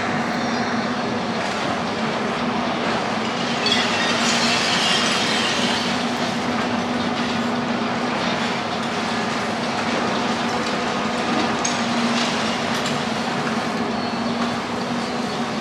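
Tracked demolition excavator working, its engine running with a steady hum under continuous metallic clanking and grinding, and a high metallic screech about four seconds in.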